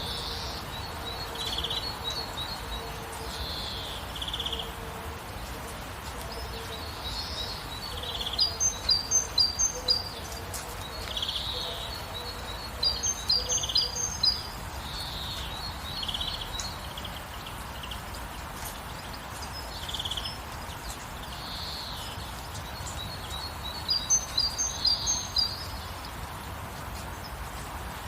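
Songbirds singing: scattered short chirps throughout, with three louder bursts of quick, high twittering about a third of the way in, near the middle, and near the end, over a steady background hiss.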